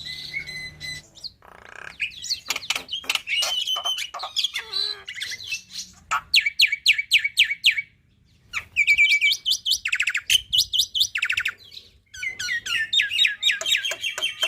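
Black-winged myna (jalak putih) singing a loud, varied song of whistles and fast runs of sharp repeated notes ('tembakan'), broken by two short pauses.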